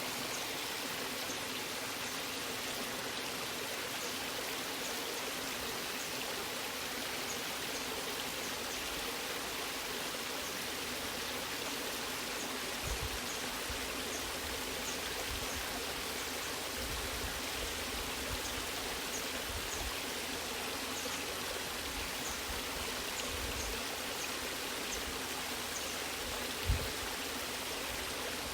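Waterfall water rushing steadily, with faint high droplet ticks and a brief low thump near the end.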